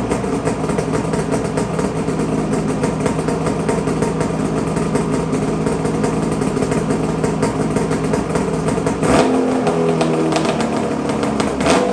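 Ski-Doo MXZ Blizzard 800 H.O. Power TEK snowmobile's two-stroke twin-cylinder engine running steadily through Jaws Performance twin race pipes. About nine seconds in, the sound changes abruptly and the deep rumble drops away; there is another sharp break near the end.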